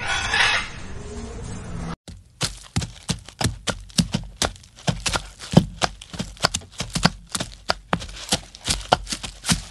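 A short hissing burst, then, about two seconds in, a rapid, uneven run of sharp clicks and knocks, two or three a second.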